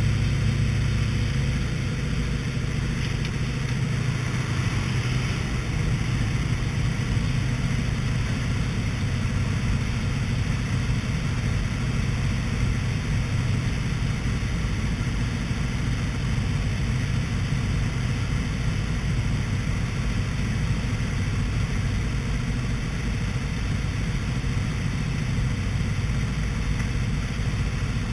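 An-2 biplane's nine-cylinder radial engine and rushing air making a loud, steady low drone. The engine's pitched hum weakens about two seconds in, leaving a steady rumbling noise.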